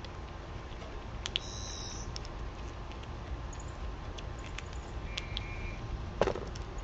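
Small birds at a backyard feeder: scattered light clicks, with two brief high chirps about a second and a half and five seconds in, and a single knock about six seconds in, over a steady low outdoor rumble.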